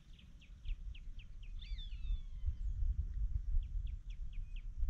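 Birds calling: runs of short quick chirps, about five a second, at the start and again near the end, and one longer call falling in pitch about two seconds in. Under them a low rumble grows louder from about halfway through.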